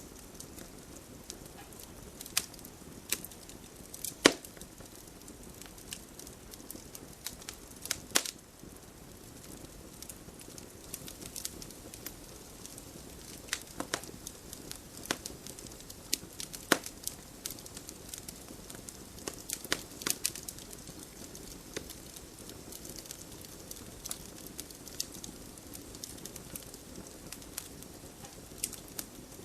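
Campfire crackling: irregular sharp pops and snaps over a low steady hiss, with a louder pop about four seconds in.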